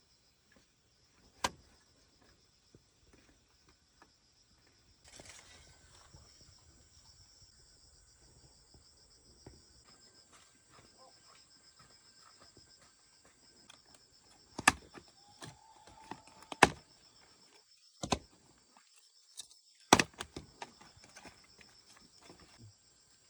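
Steady high-pitched chirping of crickets or other insects, with a handful of sharp knocks and taps scattered through; the loudest knocks come about fifteen, seventeen and twenty seconds in.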